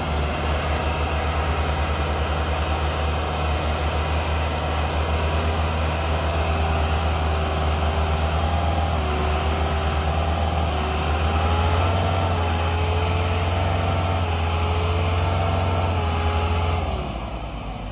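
Diesel tractor engine running hard under load, a deep pulsing hum with a steady whine above it that rises slightly about two-thirds of the way through, then dies away near the end. This is the sound of tractors straining to pull a loaded trailer that is stuck.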